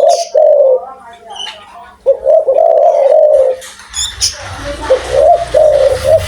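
Spotted dove (tekukur) cooing: three phrases of low, repeated coos, with faint chirps of small birds. A rushing noise joins about two-thirds of the way through.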